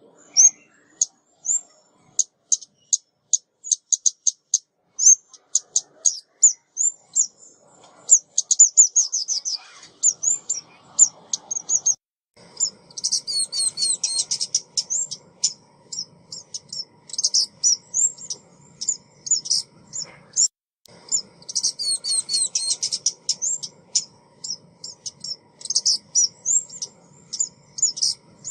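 Recorded calls of a female ốc mít, a small Vietnamese songbird, played as a decoy lure: a long string of thin, high chirps broken by several fast, chattering runs of rapid notes.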